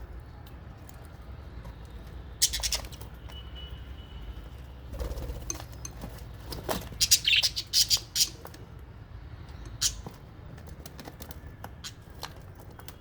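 Aviary lovebirds and budgies chirping in short, sharp bursts: one about two and a half seconds in, a cluster from about six and a half to eight seconds in, and another near ten seconds, over a low steady rumble.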